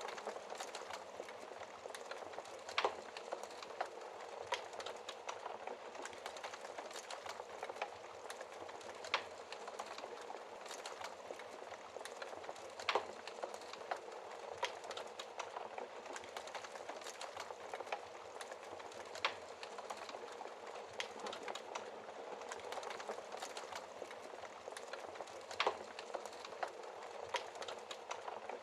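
Wood fire in a fireplace crackling: a steady soft hiss with a constant patter of small snaps and an occasional louder pop, about five in all.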